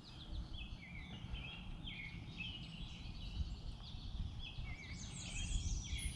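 Songbirds singing: short, quick, stepped phrases repeating about once a second, over a steady low rumble.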